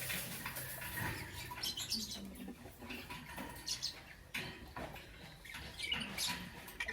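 Lovebirds chirping in short, irregular high-pitched calls.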